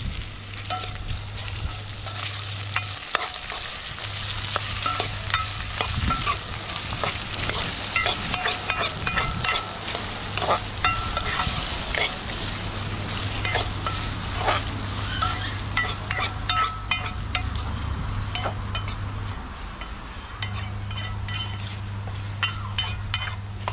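Food sizzling in a pot while a spoon stirs and scrapes through it, with frequent sharp clinks and scrapes against the pot. A steady low hum sits underneath and drops out a few times.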